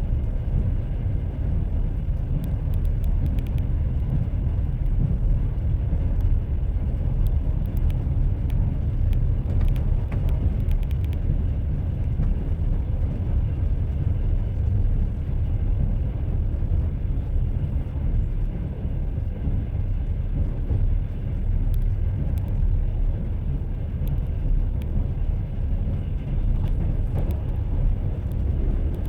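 Train running on rails: a steady low rumble of the wheels and carriage, with a few faint light clicks now and then.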